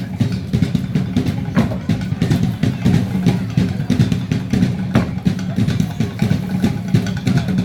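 Show music driven by fast, dense drumming over a heavy low rumble.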